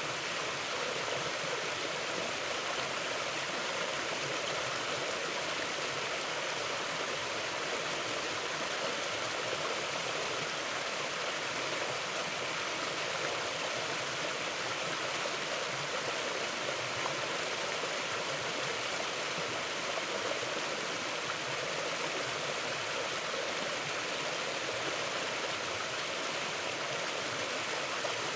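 A mountain river flowing steadily over rocks, an even rushing of water that doesn't change.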